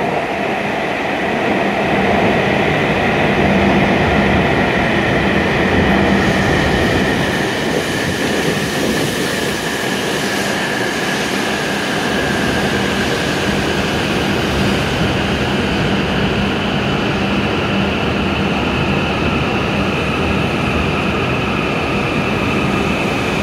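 E7-series Hokuriku Shinkansen train pulling into the platform and slowing to a stop: a steady rumble from the passing cars with a high whine running over it.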